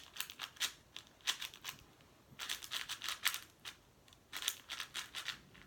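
Plastic speed cube being turned by hand: clusters of quick clicking as its layers snap past one another, in four runs with short pauses between.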